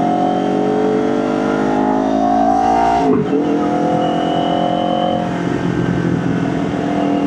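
Motorcycle engine accelerating, its pitch climbing for about three seconds, then dropping sharply at a gear change and running on at a steadier pitch.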